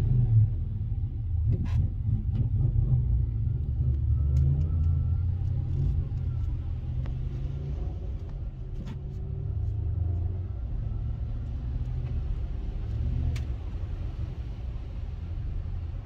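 A motor vehicle driving: a steady low rumble of engine and road, with a few faint clicks.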